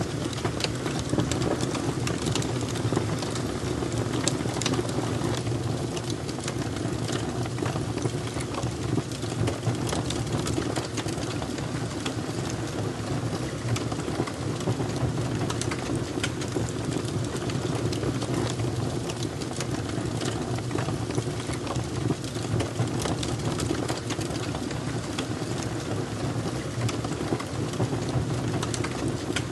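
Wood fire burning steadily, with frequent sharp crackles and pops over a low, continuous rumble of the flames.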